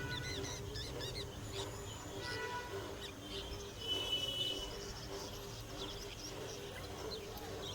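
Several small birds chirping and calling at once, short high chirps scattered throughout, over a steady low background din.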